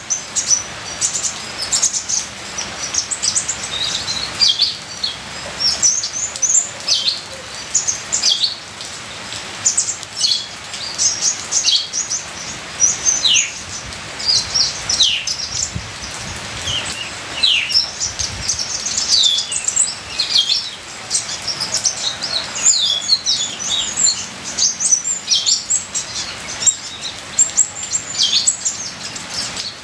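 Kolibri ninja sunbird singing a fast, unbroken stream of high, sharply falling chirps and twitters, over a steady hiss of trickling rain water.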